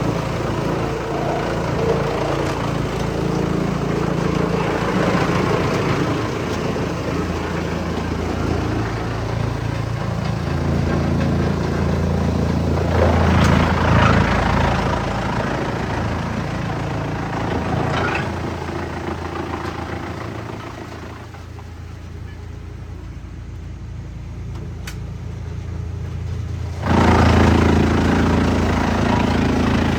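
Engine of a wood chipper running steadily, with louder, rougher spells about 13 and 18 seconds in, a quieter stretch in the later part, and a sudden return to full level near the end.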